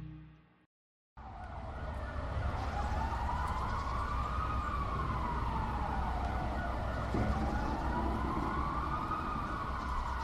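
Slow rising-and-falling wail like a distant siren, over a steady hiss and low rumble. It comes in after a moment of dead silence about a second in and swells twice.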